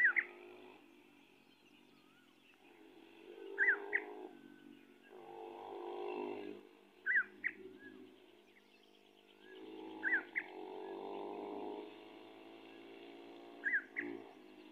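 A bird calling five times, each call a quick pair of sharp high notes, repeated about every three and a half seconds. Behind it, vehicle engines hum, swelling and fading several times.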